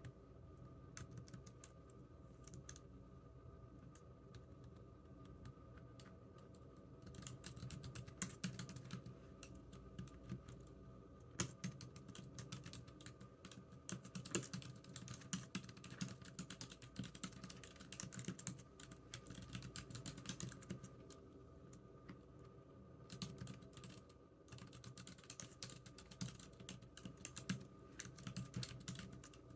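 Computer keyboard typing: a few scattered keystrokes at first, then fast, continuous typing from about seven seconds in, with a brief lull a little past twenty seconds. A faint steady hum runs underneath.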